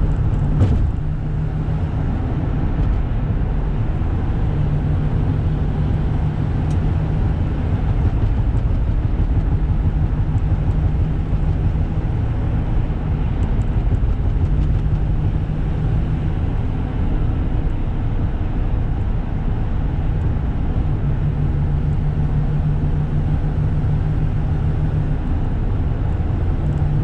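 Inside the cabin of a 1995 Toyota Granvia cruising at highway speed: its 1KZ-TE 3.0-litre turbo diesel runs steadily at around 2,000–2,500 rpm, with a lot of intake and turbo noise, over a steady road rumble. A low drone swells in and out several times.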